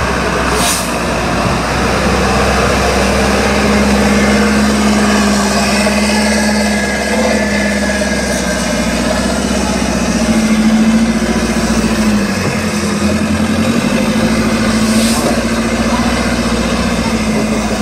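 Trial truck's engine running under load on an off-road course. The revs rise and fall as it works, climbing about ten seconds in, then dropping back. A short hiss sounds twice, once near the start and once near the end.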